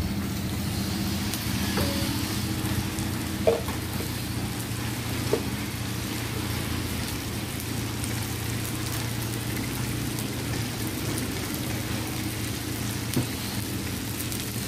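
Fried chicken pieces with onion and sugar sizzling steadily in a wok as the sugar caramelizes, with a few sharp knocks, the loudest about three and a half seconds in.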